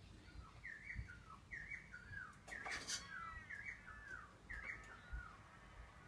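A bird calling faintly: short chirps that slide downward in pitch, repeated about once a second, with a single sharp knock near the middle.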